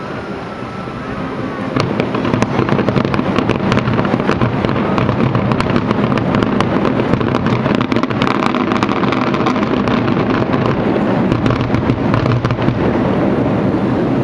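Fireworks going off in a dense, continuous crackle of many small sharp bangs, getting louder about two seconds in.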